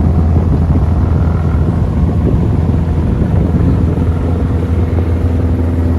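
Boat engine running with a steady low drone, heard from on board.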